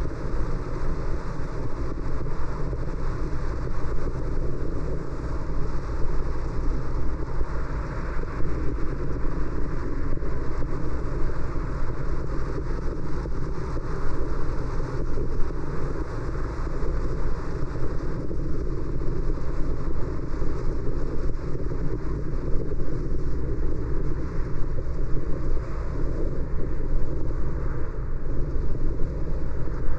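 Steady road and tyre noise with engine hum from a car driving along city streets, heard from inside the car.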